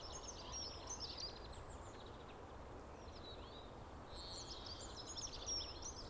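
Small songbirds chirping and twittering in quick, high repeated notes over a faint outdoor background hum. The birdsong comes in two busier spells, near the start and from about two-thirds of the way through.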